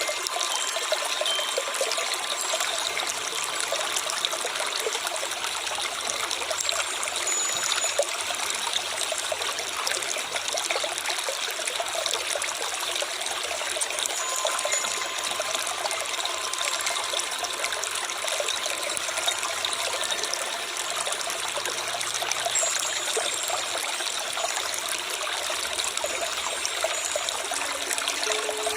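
Steady trickling of a flowing stream, water running over stones without a break.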